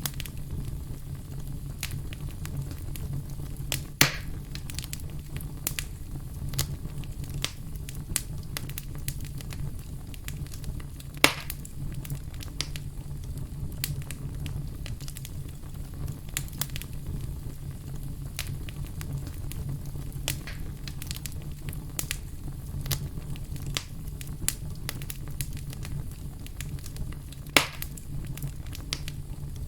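Fire burning in a fireplace, crackling with many small snaps over a steady low rumble, with three louder pops.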